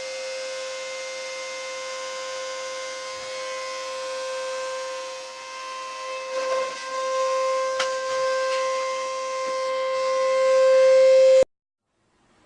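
Vacuum cleaner running with a steady high-pitched motor whine that grows louder toward the end, then stops abruptly about a second before the end.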